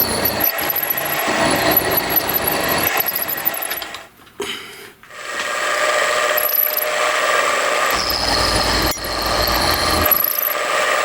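Power tool running under load in metalwork, cutting out briefly about four seconds in and starting up again, with a steadier hum and whine in the second half.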